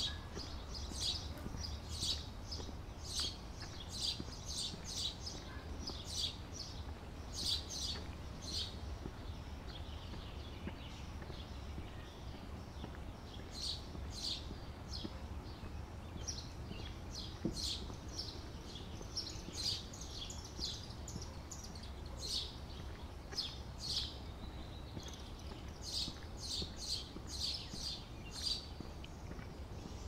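Small songbirds chirping in many short, high calls, with a lull of a few seconds partway through, over a low steady background rumble.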